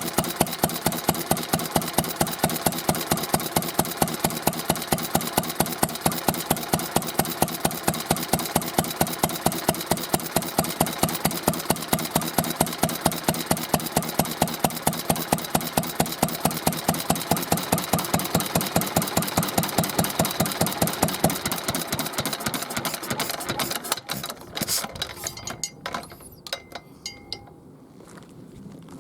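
Isami MB-20 single-cylinder kerosene stationary engine running with an even beat of about four strokes a second, then slowing and stopping about 24 seconds in, followed by a few light clicks.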